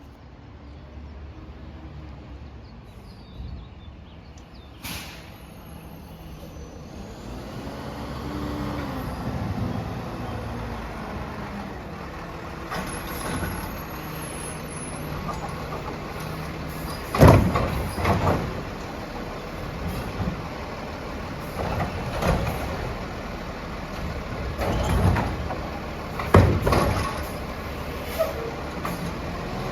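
Peterbilt 320 Wayne Curbtender garbage truck running, with a series of short, loud bangs and clatter in the second half.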